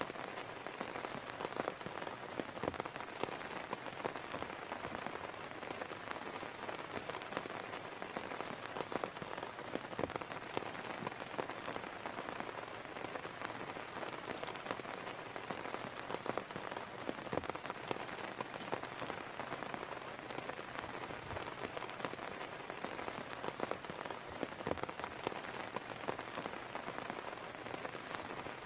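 Steady heavy rain falling, with many separate drop hits striking a surface close by.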